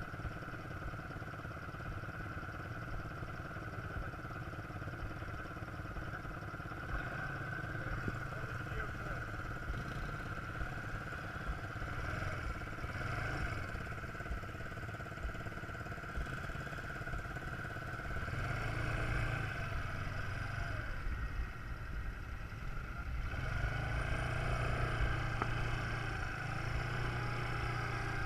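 Quad bike engine running steadily, getting louder in two steps in the second half as the bike comes back closer.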